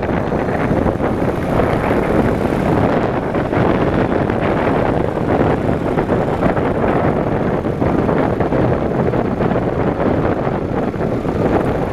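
Wind rushing over the microphone of a Yamaha motorcycle riding along at steady speed, with the engine running underneath.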